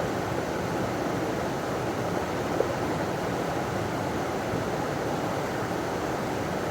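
River water pouring over a small waterfall, a steady rushing noise that stays even throughout.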